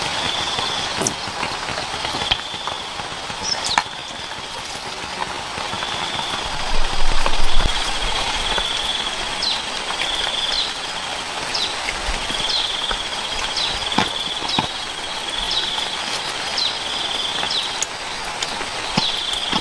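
Outdoor natural ambience: a short, high buzzing call repeats every second or so over a steady hiss. Quick upward chirps join in the second half, with scattered sharp clicks and knocks and one louder dull bump about seven seconds in.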